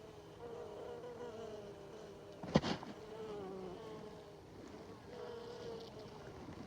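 Honeybees buzzing close by, their drone wavering in pitch as they fly around, with one sharp knock about two and a half seconds in.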